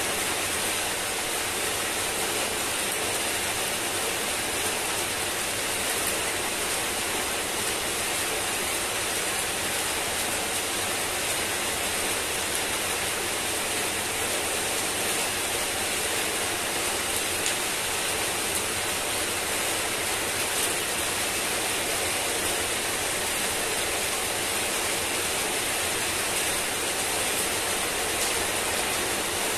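Heavy rain falling on wet pavement and leafy shrubs: a steady, dense hiss of drops and splashes that does not change.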